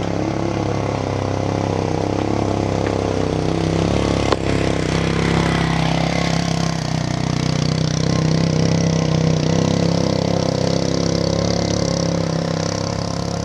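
Vehicle engine running steadily under load on a steep hill climb, with a single sharp knock about four seconds in and a tone that dips and climbs back again around the middle.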